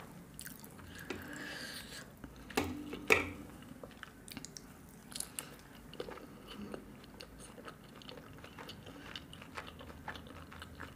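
Close-miked chewing: a mouthful of puri dipped in a green side dish bitten and chewed, with many small wet mouth clicks. The loudest bites come about two and a half to three seconds in.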